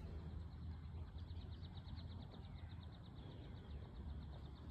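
A bird trilling: a rapid run of short high notes, about a dozen a second, starting about a second in and lasting a few seconds, over a low rumble of wind on the microphone.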